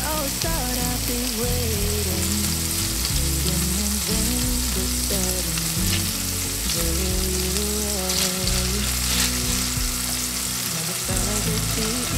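Meat-and-tofu patties sizzling steadily in hot oil in a nonstick frying pan, with music playing faintly underneath.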